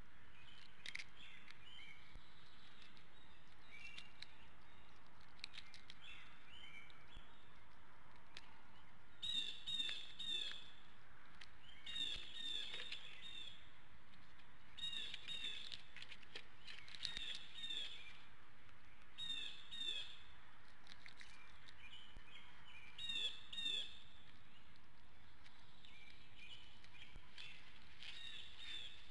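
Birds calling in short bursts of quick high chirping notes, repeated every few seconds from about a third of the way in, with fainter chirps before, over a steady outdoor hiss.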